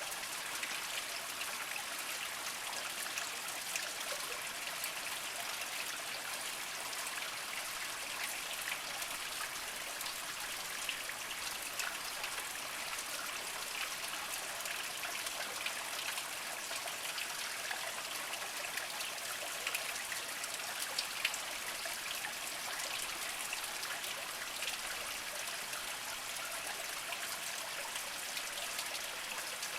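A small spring trickling and dribbling over mossy rocks: a steady gentle water sound with many small splashes and drips, a couple slightly louder around twenty seconds in.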